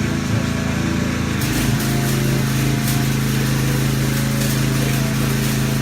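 Engine-driven welding machine running steadily. About a second and a half in its engine note changes as it takes load, and the crackling hiss of a welding arc sets in and keeps going.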